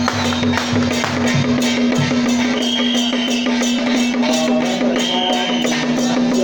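Temple procession percussion: drums, gongs and cymbals beating a steady, dense rhythm, over a sustained low tone, with a short high note repeating about every two seconds.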